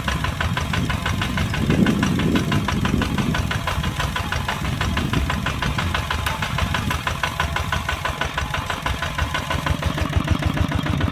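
Kubota tractor's diesel engine running with a steady, rapid clatter.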